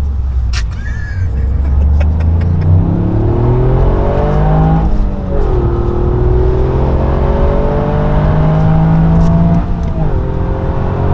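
Toyota GR Yaris's turbocharged three-cylinder engine heard from inside the cabin under hard acceleration. The engine note climbs steadily, drops sharply at an upshift about five seconds in, climbs again, and drops at a second upshift near the end.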